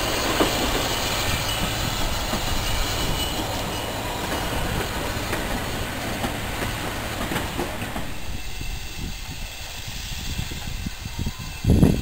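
Passenger train running past, its coaches rolling along the track with a steady rumble. About eight seconds in the sound drops to a quieter, lower rumble, with a loud thump near the end.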